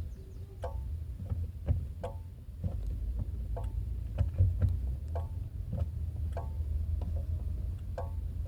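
Chery Tiggo 7 Sport making short metallic clicks with a brief ring, like a spoon tapping a pan, repeating irregularly about twice a second while the brake pedal is pressed, over a low steady hum. The owner says the noise is not normal and does not know its cause.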